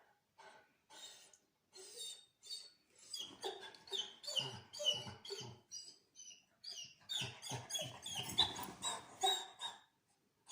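A dog whining in quick, high-pitched cries, many in a row and busiest in the second half, frustrated at being kept from something it wants.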